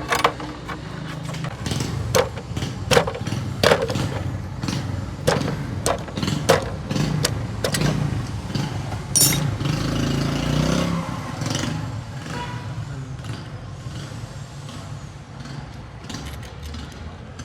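Metal tools and engine parts clinking and knocking sharply at irregular intervals, over the steady low rumble of a running engine.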